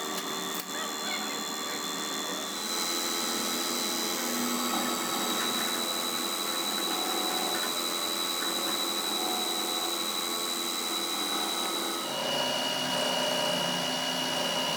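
Power tool running steadily with a high whine, which shifts to a lower pitch about twelve seconds in.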